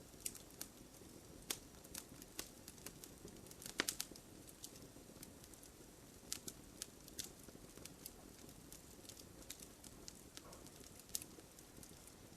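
Wood fire burning with a soft hiss and irregular sharp crackles and pops, a quick cluster of louder pops about four seconds in.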